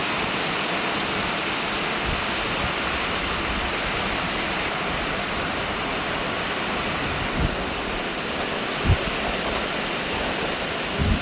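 Steady heavy rain falling, an even hiss of water, with a few dull low thumps in the second half.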